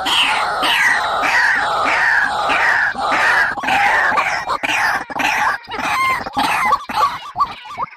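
A bird's loud, harsh call repeated about twice a second, each note falling in pitch, breaking into quicker, shorter notes near the end.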